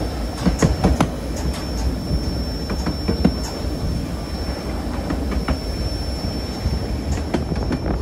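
Narrow-gauge railway cars rolling along the track: a steady low rumble with wheels clicking irregularly over rail joints, and a thin steady high whine of wheel squeal through most of the stretch.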